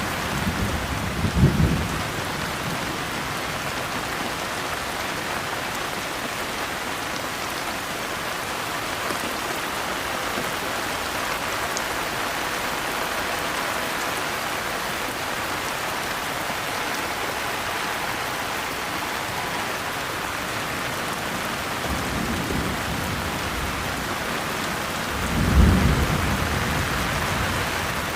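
Steady heavy rainfall with thunder rumbling twice, once at the start and again, louder, a few seconds before the end.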